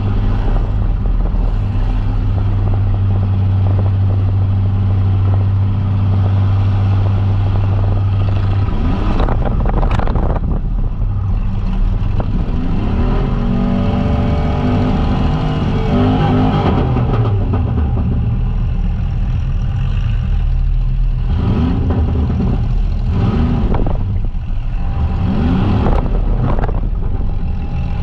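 Compact demolition derby car's engine heard from inside the stripped cabin. It holds a steady drone for the first eight or nine seconds, then is revved up and down again and again. A few sharp bangs cut across it, one about ten seconds in and more in the last few seconds.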